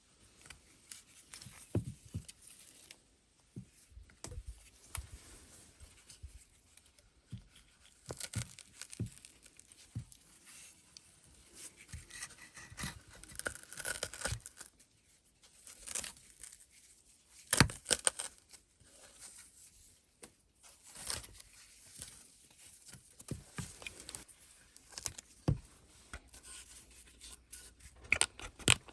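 Irregular handwork noises: rustling, tearing and scraping broken by sharp knocks and clicks a second or a few seconds apart, the loudest knocks about eighteen seconds in and near the end.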